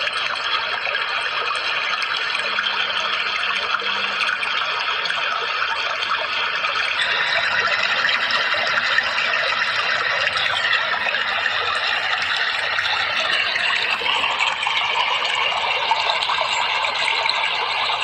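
Steady rush of running water, like a stream or small waterfall, unbroken throughout, with a slight change in its texture about seven seconds in.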